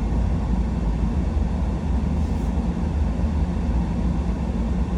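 Steady low rumble of a truck driving, with engine and tyre road noise heard inside the cab.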